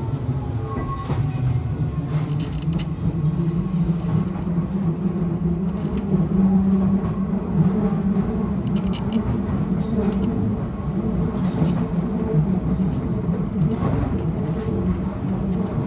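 Odakyu 1000-series electric train running along the line, heard on board: a steady low rumble of wheels and running gear with occasional clicks, and a faint falling whine in the first few seconds.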